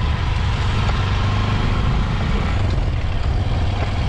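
Honda CRF150L motorcycle's single-cylinder four-stroke engine running steadily while under way, with a steady rush of wind noise.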